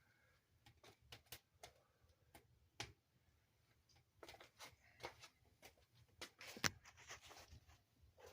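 Faint crackling of a wood fire burning in a fireplace: irregular sharp snaps and pops, a few louder ones in the second half.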